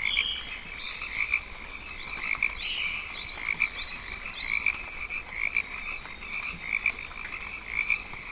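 Rainforest animal chorus of calling frogs: a pulsing call repeating a little more than once a second, with short rising chirps above it.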